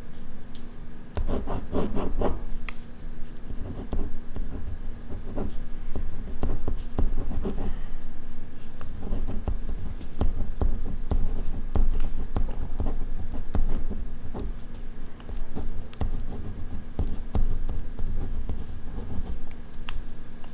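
Ballpoint pen writing on paper, a continuous run of short scratching strokes.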